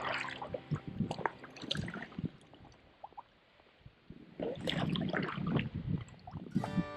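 Small splashes, drips and gurgling of river water around an inflatable kayak drifting with the current, with a brief quiet lull in the middle.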